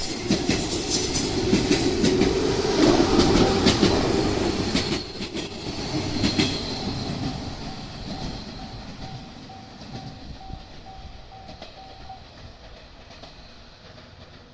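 Train running over a level crossing, its wheels clacking over the rail joints, loud for the first five seconds or so, then fading as it moves away. Behind it the crossing's warning bell keeps ringing in a steady repeating pattern and stops about twelve seconds in.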